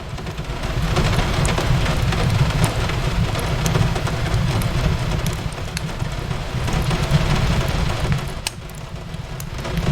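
Fireplace crackling, with scattered sharp pops and snaps, over a steady wash of rain on a window and a low rumble throughout.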